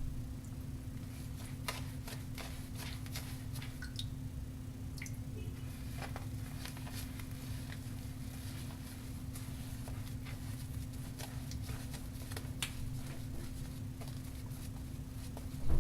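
Wet shaving brush working a shaving-soap lather after its tips are dipped in water: a soft, squishy, crackling lather sound made of many small irregular clicks, over a steady low hum.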